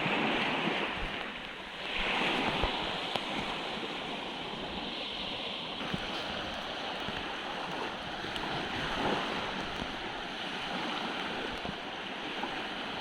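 Sea surf washing in steady waves, swelling louder about two seconds in and again past the middle, with strong wind buffeting the microphone.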